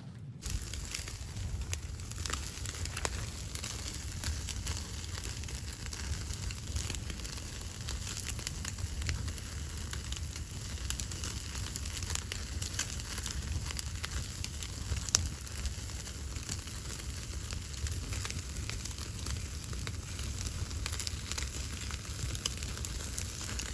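Wood fire crackling, with frequent small pops and one sharper pop about halfway through, over a steady low rumble.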